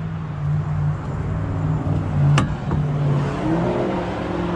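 Kenworth coal truck's diesel engine idling steadily, with a sharp click about two and a half seconds in and a tone that rises a little and then holds just past three seconds. The driver remarks that it sounds like it needs an exhaust manifold gasket.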